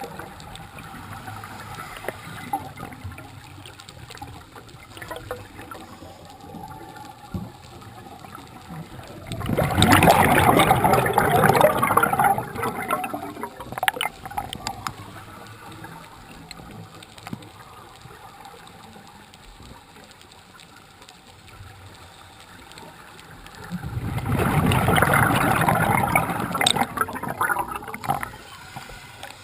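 Scuba diver's exhaled bubbles bursting from the regulator and rushing past the underwater camera, in two long bubbly bursts about fifteen seconds apart, with quieter underwater hiss between them.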